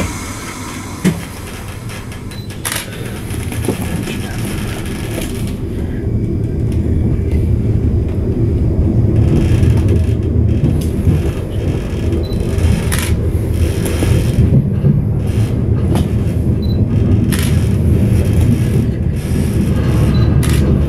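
Inside a Stadler Flirt electric multiple unit as it pulls away from a station: a low running rumble that builds as the train gathers speed, with a few sharp clacks of wheels over rail joints and points.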